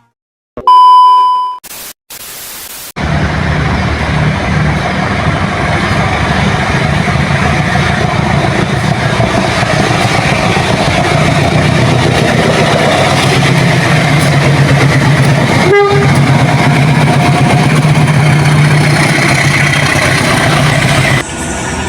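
A short, loud high beep about a second in, then from about three seconds the loud, steady rumble and rail noise of a train running close by.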